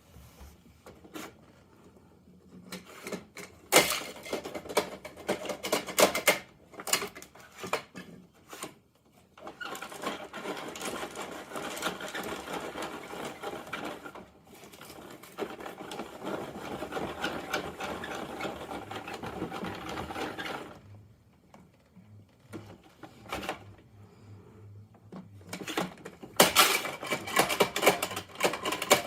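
Plastic toy garbage truck being handled: two long stretches of fast, dense plastic rattling and clicking, with scattered clicks and knocks before and after.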